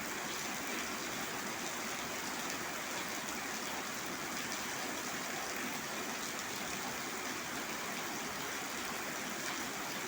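Rain falling steadily, an even unbroken hiss of water.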